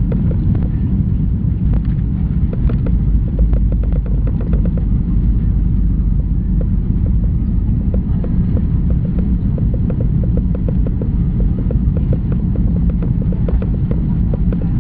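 Airliner cabin noise during landing: a loud, steady, low rumble of engines and wheels on the runway, with many small clicks and rattles.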